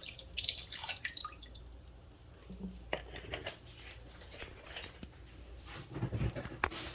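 Water dripping and splashing, with scattered small knocks and clicks, as raw fish are handled and rinsed.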